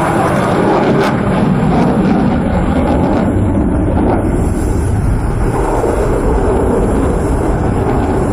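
Jet aircraft engine noise, a loud steady rumble.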